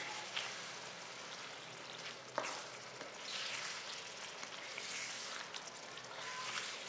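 Chicken, tomatoes and spices sizzling in oil while a spatula stirs them through the pot: the masala being fried. The sizzle swells with each stroke, and there is a single sharp clack about two and a half seconds in.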